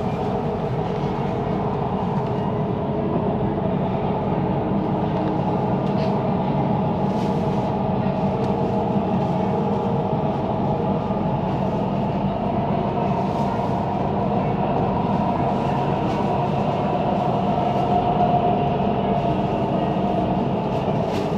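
Cabin sound of a Siemens Inspiro metro train running between stations: a steady rolling rumble of wheels on rail, with faint whining tones on top, one swelling briefly near the end.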